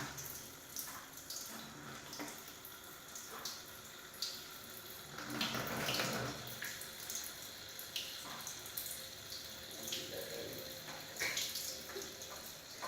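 Water from a small tabletop fountain trickling and splashing steadily, with irregular small drips and splashes.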